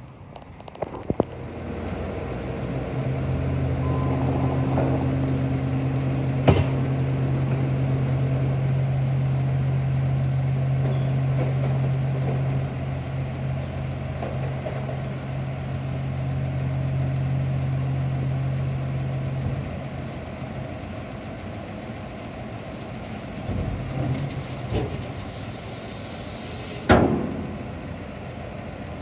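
2007 Ford F750 dump truck's engine running at idle: a steady low drone that builds over the first few seconds and eases after about twenty. Near the end comes a brief high hiss, then a sharp click.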